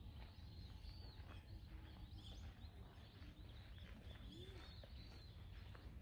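Faint, scattered high bird chirps over a low, steady outdoor rumble.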